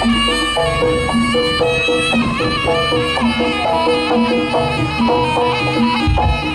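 East Javanese jaranan music: a held, wavering wind-instrument melody over a steady repeating pattern of short pitched percussion notes, with heavy low bass coming back in near the end.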